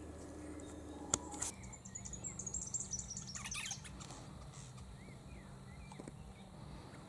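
Small birds calling outdoors: a rapid run of high, twittering chirps between about one and a half and four seconds in, with a few fainter calls later. A single sharp click sounds about a second in.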